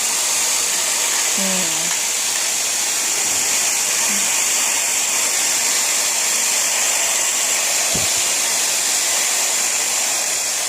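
Hair dryer blowing steadily at a constant pitch and level.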